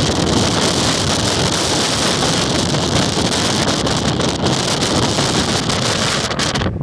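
Strong wind blowing hard over the microphone: a loud, unbroken rush of noise with constant buffeting.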